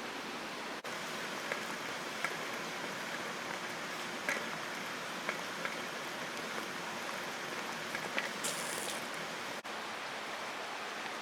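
Wood campfire burning: a steady hiss with scattered sharp crackles and pops, and a brief high hiss about eight and a half seconds in.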